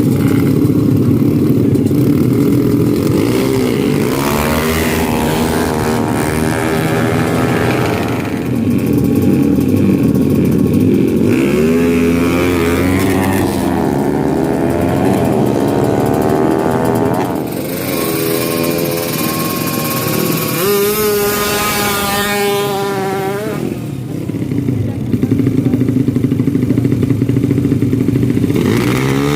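Drag-racing motorcycle engines revving hard and accelerating, their pitch climbing and dropping again and again as they run through the gears.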